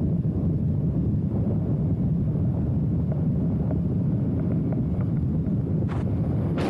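Wind buffeting the microphone: a steady, loud low rumble, with a brief click about six seconds in.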